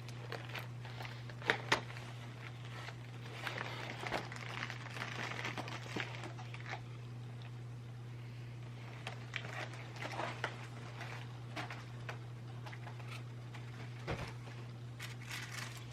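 Scattered rustles and light taps of a package and its wrapping being handled and opened, over a steady low hum.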